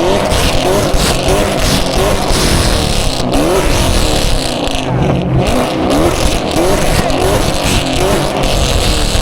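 Loud V8 exhaust of a Camaro 2SS running with headers and no catalytic converters, the engine note rising again and again as it revs, over steady road noise.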